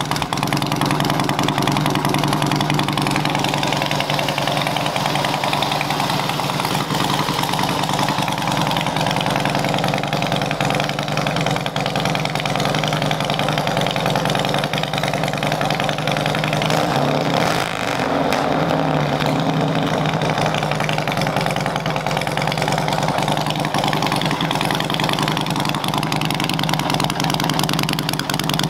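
2002 Harley-Davidson Heritage Softail Classic's V-twin engine idling steadily through long fishtail exhaust pipes, its pitch shifting briefly about two-thirds through.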